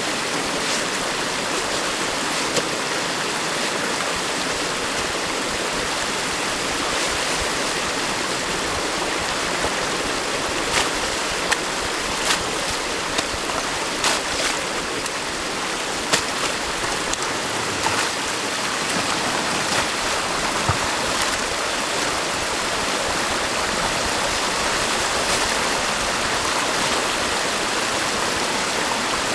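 Stream water rushing steadily, with a few short sharp clicks or knocks around the middle.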